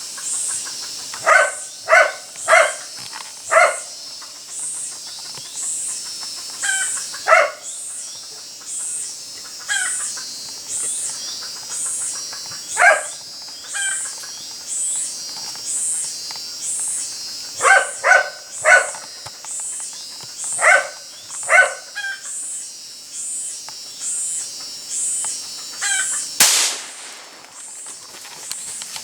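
An animal giving short, sharp calls in runs of two to four over a steady, high, pulsing insect chorus of jungle cicadas, with a single sharp crack near the end.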